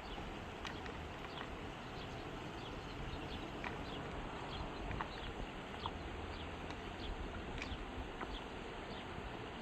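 Mountain river flowing steadily, with many light, irregular clicks and taps over it.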